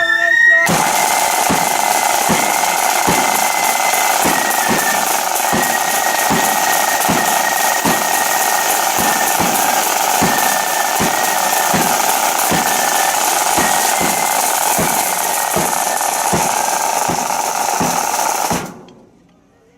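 Blood-and-thunder flute band playing a march: rattling snare drums over a bass drum beating about twice a second, with flutes carrying a high melody. The playing stops abruptly near the end.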